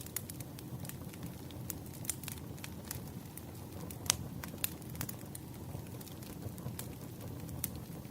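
Wood bonfire burning: a steady low rumble of flame with frequent irregular crackles and sharp pops, one pop louder than the rest about four seconds in.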